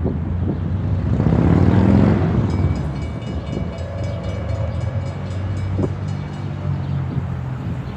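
A heavy vehicle passing close by: a rush of noise that swells and peaks about two seconds in, then a steady low engine hum with a thin high whine over it, fading near the end.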